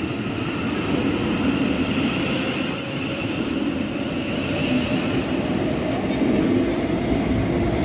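Steady running noise of a Class 707 electric train, a continuous rumble with faint steady tones over it.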